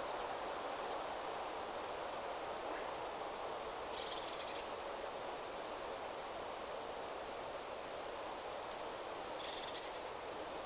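Wind rustling steadily through forest trees, with faint high thin bird calls scattered throughout and two short rasping bird calls, about four seconds in and near the end.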